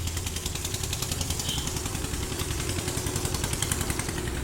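Diesel tractor engine running steadily at idle, with an even, rapid knocking beat over a low hum.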